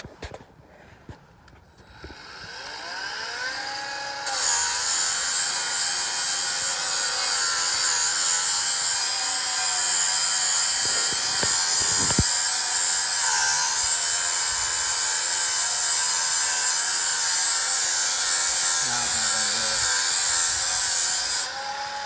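Bauer 4-1/2-inch cordless angle grinder spinning up with a rising whine, then sanding paint off a bumper with a sanding disc: a steady grinding hiss over the motor whine. Near the end the grinding eases and the motor runs on alone.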